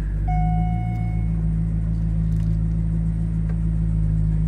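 Chevrolet C5 Corvette's V8 idling steadily, heard from inside the cabin. About a quarter second in, a single electronic warning tone from the dash sounds for about a second.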